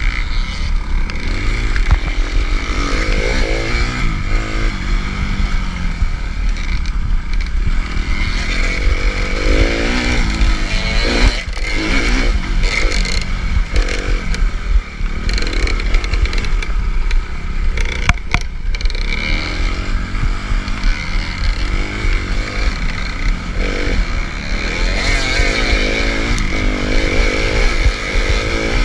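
2011 Suzuki RM-Z250 motocross bike's single-cylinder four-stroke engine running hard, its revs rising and falling again and again, with a few sharp knocks around the middle.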